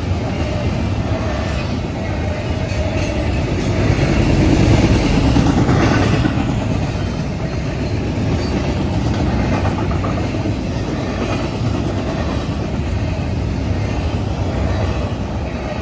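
Norfolk Southern intermodal freight train running past on the rails: a continuous rumble and rattle of wheels and cars, growing louder about four to six seconds in and then easing a little.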